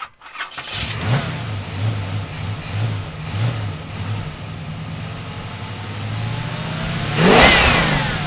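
Car engine starting about a second in and running with an uneven, pulsing note, then revved once near the end before the sound cuts off suddenly.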